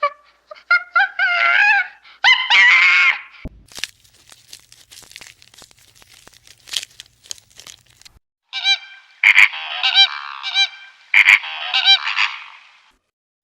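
Birds giving loud, honking calls in two bouts, with a stretch of faint clicks and rustling between them.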